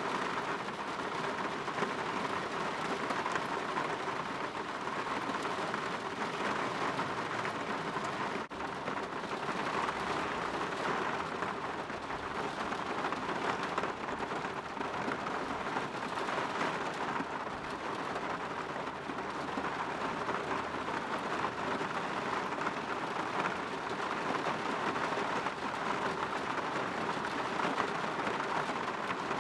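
Steady rain on a window: an even hiss, with a brief dropout about eight seconds in.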